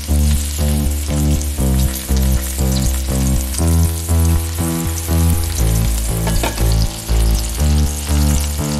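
Asparagus frying in butter in a pan, a steady sizzle, under louder background music with a steady beat and bass line.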